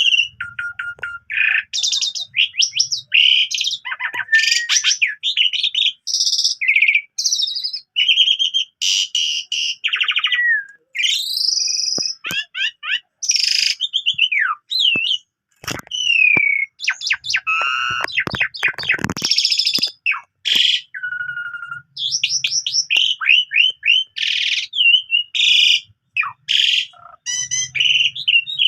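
Asian pied starling (jalak suren) in full song: a fast, unbroken medley of varied whistles, rising and falling glides, chirps and harsh notes, packed with mimicked fill-in phrases. A run of sharp clicks comes in the middle.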